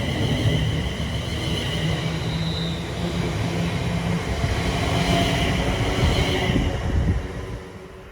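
Train running through a station: a heavy rumble with a steady high whine or squeal above it, dropping away sharply about seven and a half seconds in.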